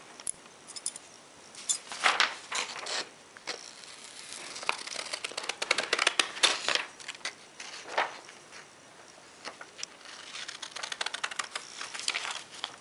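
Sharp scissors cutting printer paper: irregular runs of crisp snips with paper rustle, thickest in the middle.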